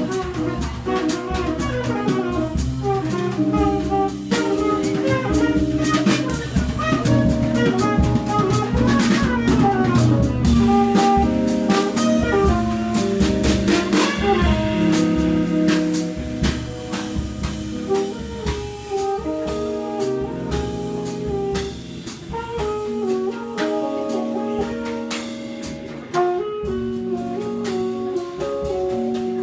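Live jazz trio: tenor saxophone playing a melodic line over guitar and a drum kit with busy cymbal work. The playing grows softer in the second half.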